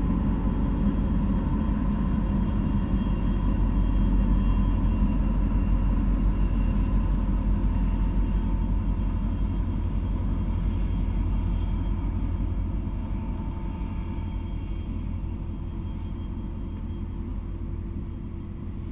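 Norfolk Southern freight train passing: a steady low rumble of diesel locomotives going by, easing off gradually in the second half as the autorack cars roll past.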